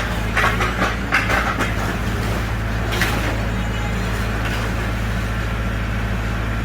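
Engine running steadily at a constant low pitch, with a quick series of clattering knocks in the first two seconds and one more about three seconds in.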